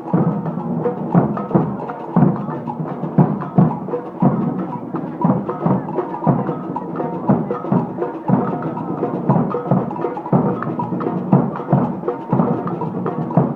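Marching band playing in a street procession, with a steady drum beat under held band tones.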